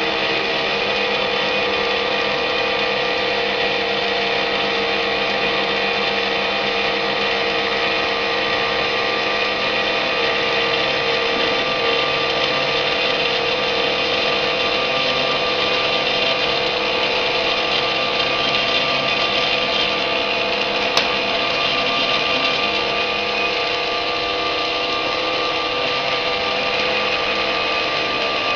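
A CNC engraving and cutting machine's spindle running steadily, a constant whine made of several even tones. There is a single sharp click about three quarters of the way through.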